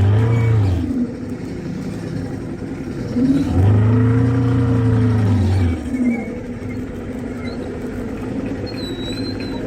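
A motor vehicle engine revving up and easing off twice, the second time longer, over steady background noise.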